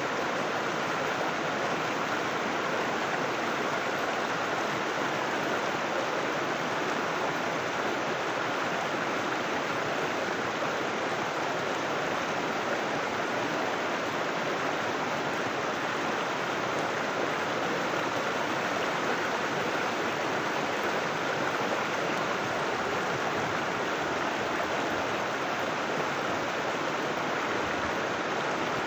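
River water flowing and rushing over rocks, a steady, even rush with no pauses.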